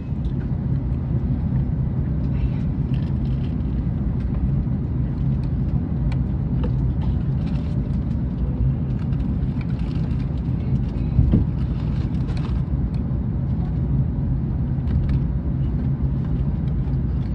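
Steady low rumble of an Airbus A321neo's cabin air during boarding, with scattered faint clicks and knocks.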